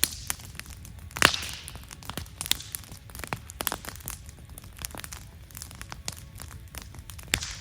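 Wood fire crackling, with irregular sharp snaps and pops from the burning wood and one loud pop about a second in, followed by a brief hiss.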